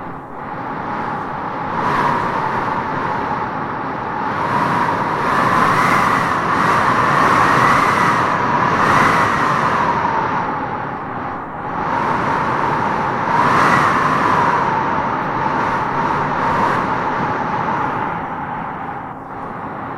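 Wind howling and gusting through trees, a whistling howl that wavers up and down in pitch over a steady rush. It swells in the middle and again about two-thirds of the way through.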